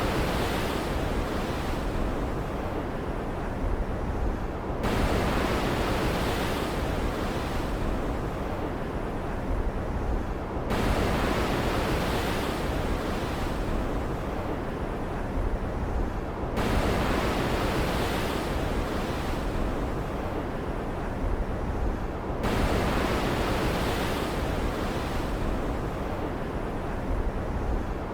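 Stormy sea ambience: a steady rushing of surf and rain that swells suddenly about every six seconds, as a wave surges, then fades back.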